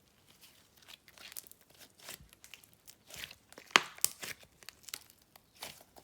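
Slime being squished and stretched by hand, giving irregular crackly clicks and pops, the loudest a little past the middle.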